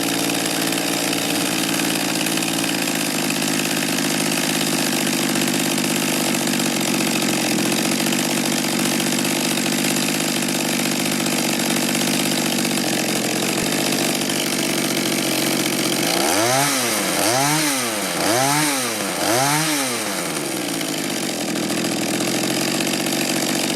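Mantis mini tiller's two-stroke engine idling steadily on a freshly adjusted carburetor, its idle set low so the tines don't spin. About two-thirds of the way through it is revved four times in quick succession, each rev rising and falling back, then it settles to idle again.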